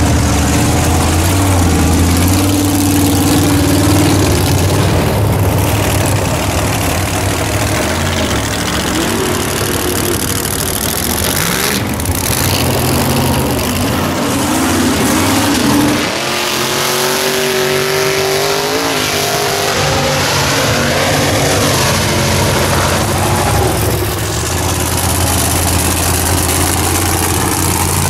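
Loud engines of modified mud trucks running and revving, the pitch rising and falling several times. About sixteen seconds in the deep low rumble drops away and a higher engine tone climbs.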